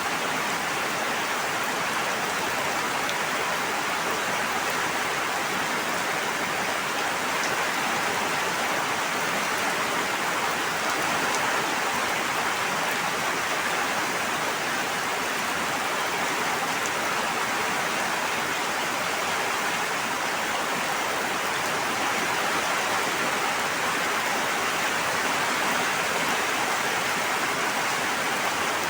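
A steady, even rush of falling or flowing water that does not let up.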